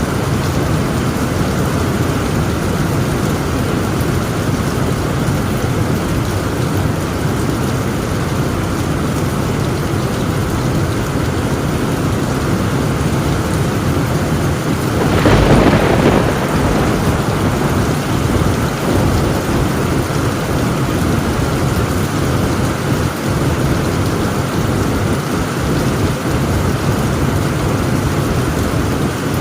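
Heavy rain drumming steadily on a tin roof, with a single thunderclap about halfway through that cracks sharply and rumbles off over a second or two.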